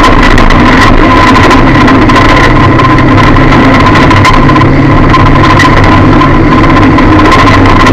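A Lada derby car's engine running steadily, heard loud from inside the cabin. A steady high whine sits over it throughout.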